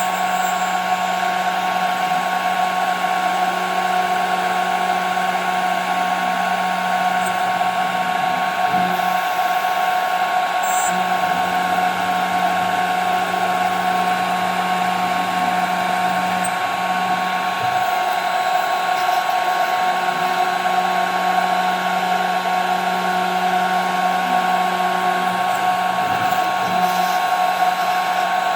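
CNC machine spindle running with a steady whine as it mills a 5 mm plexiglass sheet, with a few faint ticks of the cutter.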